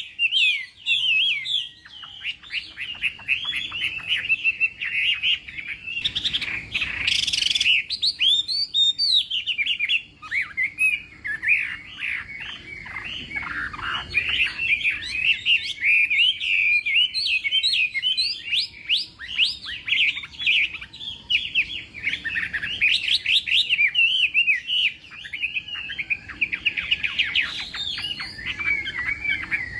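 Chinese hwamei singing a long, fast, varied song of rapid whistled phrases with hardly a pause. There is a brief rushing noise about seven seconds in.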